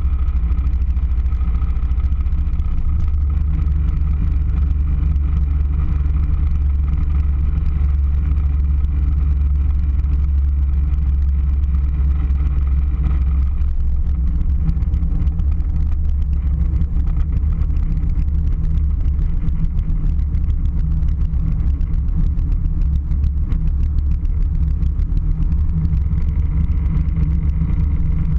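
Airliner cabin noise: a steady deep rumble of engines and airflow, with a fainter higher hum that fades away about halfway through.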